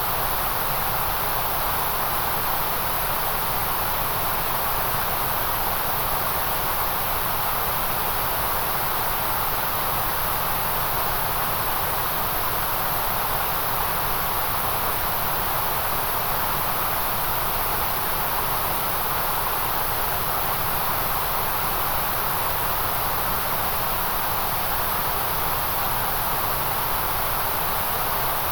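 Synthetic white noise: a steady, unchanging hiss with no events in it, heaviest in the upper middle and the very top of the range.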